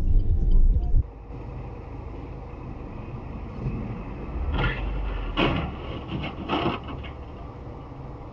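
Vehicle road and engine noise as heard from a dashcam. A loud low rumble drops off abruptly about a second in to quieter, steady road noise, with a few short, sharp sounds in the middle.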